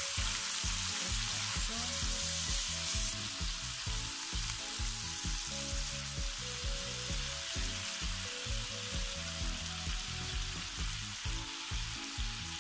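Sliced onions, tomatoes and garlic sizzling as they fry in oil in an enamelled pan, stirred with a plastic spoon. Background music with a steady low beat plays underneath.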